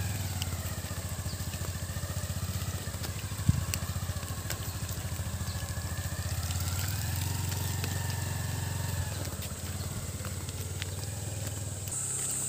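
Motorcycle engine running steadily with an even low pulse, its higher tones slowly rising and falling. A single short knock comes about three and a half seconds in.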